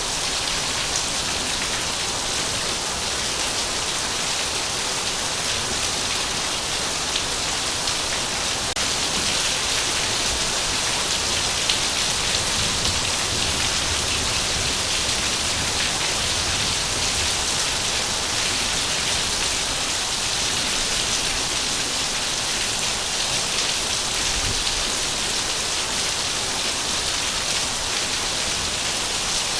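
Heavy rain falling steadily, a dense even hiss of drops on surfaces with a faint low rumble beneath.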